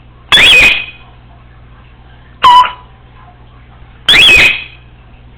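Congo African grey parrot giving three loud whistled calls, about two seconds apart, each sliding in pitch.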